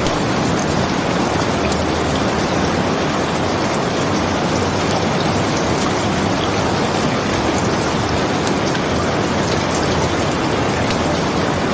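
Steady rain falling, an even unbroken hiss, with faint scattered ticks on top.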